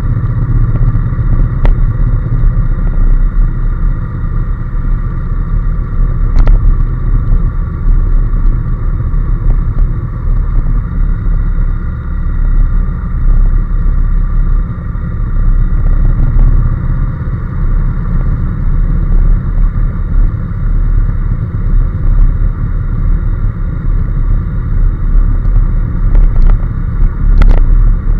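Honda NC750S motorcycle cruising at steady speed, its 745 cc parallel-twin engine running evenly under heavy low rumble, with no revving up or down. A few brief clicks come through.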